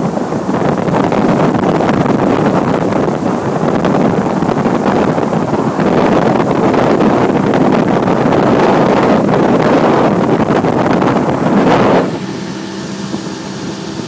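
Boat motor running under way, with heavy wind noise on the microphone over the motor. About twelve seconds in, the rushing noise drops off sharply, leaving a steady lower engine hum.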